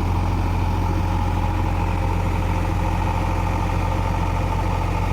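JCB 3DX backhoe loader's diesel engine idling steadily with a deep, even hum.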